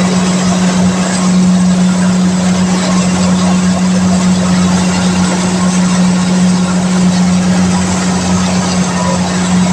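Kubota DC-70 combine harvester's diesel engine running steadily at a constant pitch, over a broad, even mechanical rush.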